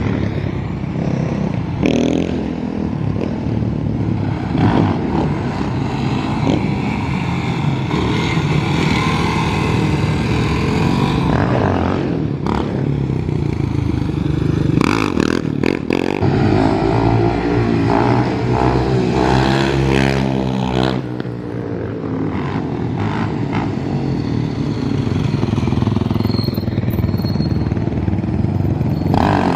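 Off-road motorcycle and ATV engines running and revving throughout, their pitch rising and falling. One long swell in pitch and back down comes a little past the middle, and short knocks are scattered through.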